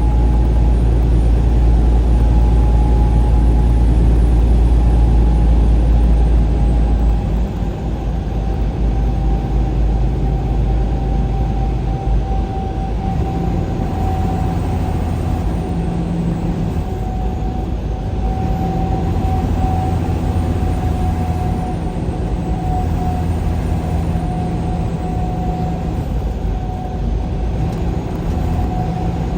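Engine and road noise of a moving vehicle, a steady rumble with a steady whining tone above it. The deepest part of the rumble eases about seven seconds in.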